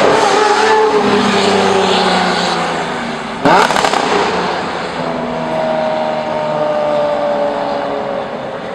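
Lamborghini Murcielago SV's V12 engine driving away, its note falling in pitch and fading. A single loud, sharp bang from the exhaust comes about three and a half seconds in. After it a second falling engine note follows.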